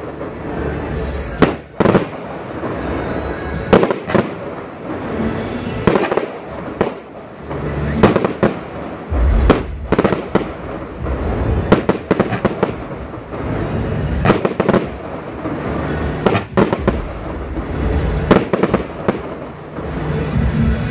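Fireworks display: aerial shells bursting one after another in sharp bangs at irregular intervals, some in quick clusters of two or three.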